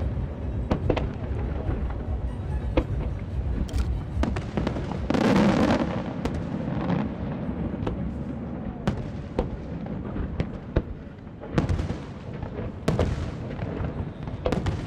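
Aerial firework shells bursting in quick succession: many sharp bangs over a continuous low rumble of explosions, with a louder, denser run of bursts about a third of the way through.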